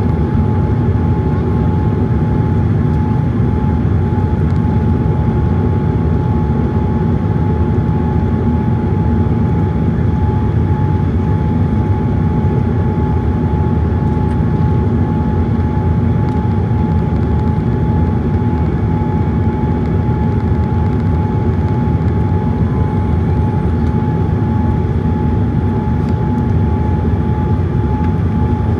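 Steady engine and airflow noise inside the cabin of a Boeing 787-8 Dreamliner: a heavy, even rumble with a steady high tone running through it, with no change in thrust.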